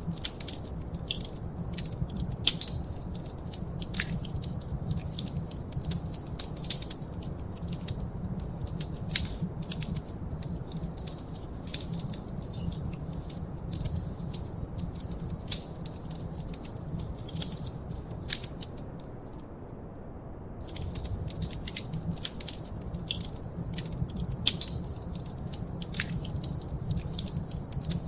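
Wood fire crackling, with irregular sharp pops and snaps over a steady low rumble. The crackles stop for about a second and a half about two-thirds of the way through, while the rumble carries on.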